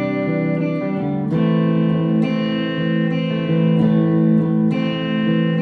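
Electric guitar played through a Mooer GE100Pro multi-effects processor: chords strummed and left to ring, with a new chord struck about every one to two seconds.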